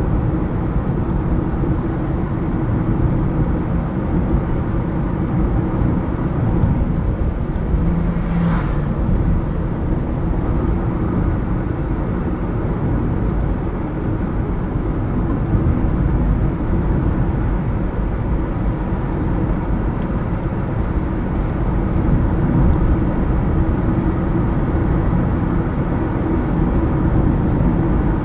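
A car driving at steady speed, with a constant low rumble of engine and tyre road noise. A brief faint higher sound comes about eight seconds in.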